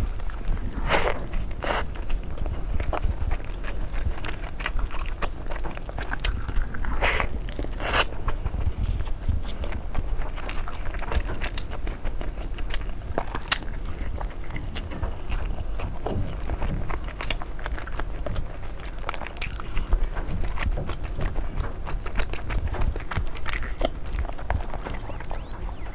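A person chewing and biting food close to the microphone, with wet crackles, crunches and sharp clicks scattered through it, over a steady low rumble.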